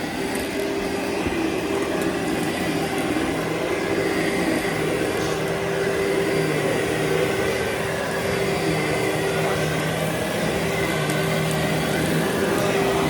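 Vacuum cleaner running steadily as it is pushed over carpet, its motor giving a constant hum.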